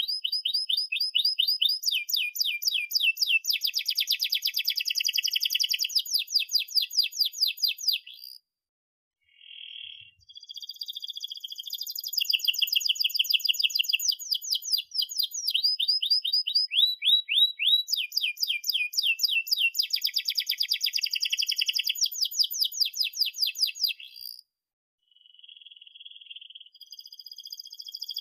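Domestic canary singing long phrases of fast trills and rolls, rapid repeated high chirps with some quick down-sweeping notes. The song breaks off briefly about eight seconds in and again near the end.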